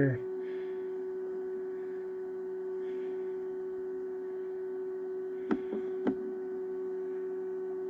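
Steady electrical hum from the egg-candling and incubator equipment, one strong tone with overtones, with two light clicks a little over halfway through.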